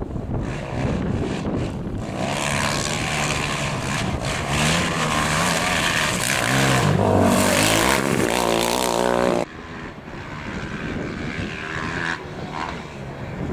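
A competition vehicle's engine accelerating hard on a dirt rally stage, its note climbing in steps through the gears. About nine seconds in, the sound drops off sharply to a quieter, more distant engine note.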